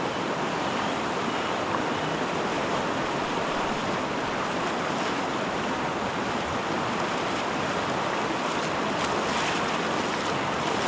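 Steady rushing of stream water flowing across a ford.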